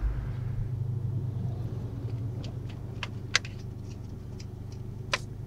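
Car engine idling, a steady low hum heard from inside the cabin, with a few sharp clicks about halfway through and again near the end.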